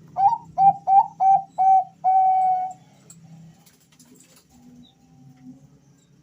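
Male zebra dove (perkutut Bangkok) cooing: five short, clear notes, each opening with a quick upward slide, then one longer held note at the end of the phrase.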